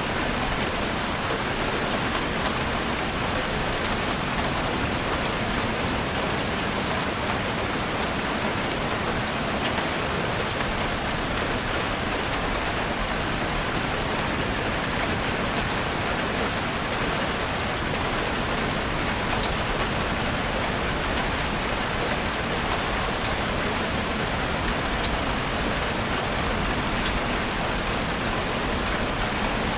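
Heavy rain falling steadily on a roof: a dense, even patter with individual drops ticking through it.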